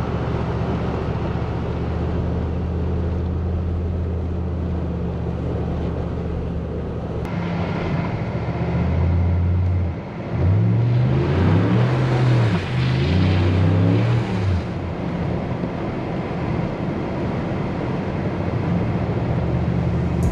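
Cadillac DTS's Northstar V8 running while driving, revved up and down several times about halfway through.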